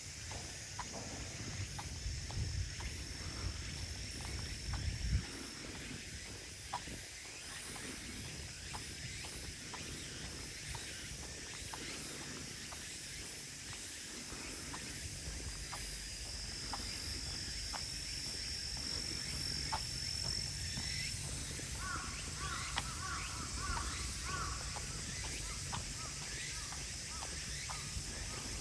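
Footsteps on a woodland path under a steady chorus of late-summer insects, with a thin high insect trill running through it. A bird calls a short series of repeated notes about two-thirds of the way in.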